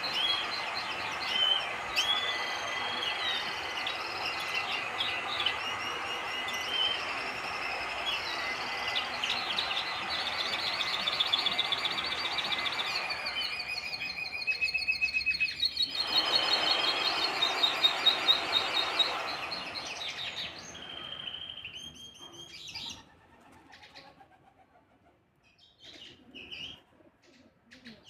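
A small cage songbird singing a long, continuous twittering song of rapid trills and warbles. The song stops about 21 seconds in, and only a few faint chirps follow.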